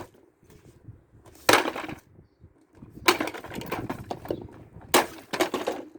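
Hammer blows smashing a plastic kids' ride-on toy car: a loud sharp strike about a second and a half in, a run of cracking and knocking, and another sharp strike near the end, as he tries to break off a wheel and the handle.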